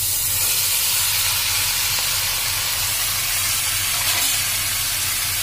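Chopped, freshly washed taro stems sizzling loudly and steadily in hot oil in a wok, just after being tipped in: the water on the vegetables spitting in the oil.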